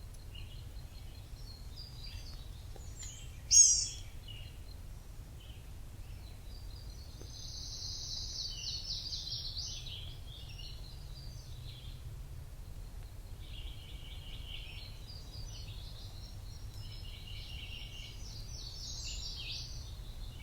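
Several forest birds chirping and trilling, overlapping, with one much louder, close call about three and a half seconds in. A steady low rumble lies underneath.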